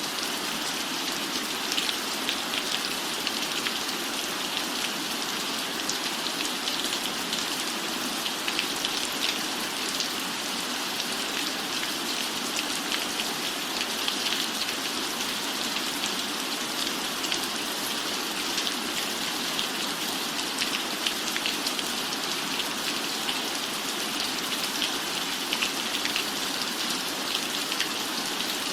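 Steady rain on a roof: a constant hiss with a dense patter of individual drops.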